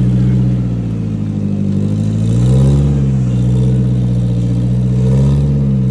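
Off-road 4x4's engine running under load as the vehicle climbs an obstacle, revving up about two and a half seconds in and again near the end.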